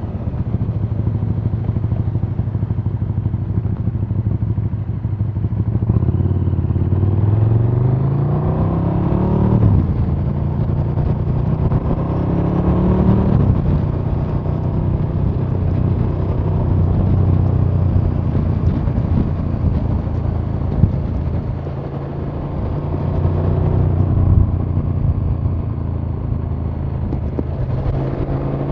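KTM 1290 Super Duke R's V-twin engine heard onboard the moving bike. It runs steadily at first, then revs up through the gears with a sharp drop in pitch at two shifts, about nine and a half and thirteen and a half seconds in, then carries on with the revs rising and falling.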